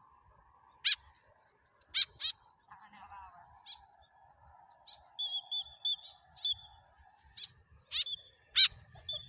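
Tame white-breasted woodswallow (kekep) calling: short, sharp chirps at irregular intervals, with a quick run of repeated twittering notes about halfway through.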